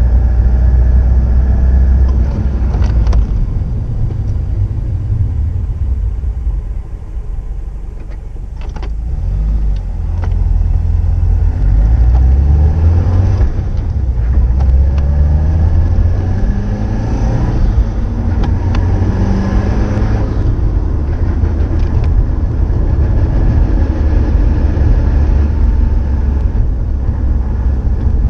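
Subaru Impreza WRX STI (GDB) EJ20 turbocharged flat-four running through its stock STI Genome muffler, with a deep, loud exhaust note. It eases off for a few seconds, then the revs climb several times in a row.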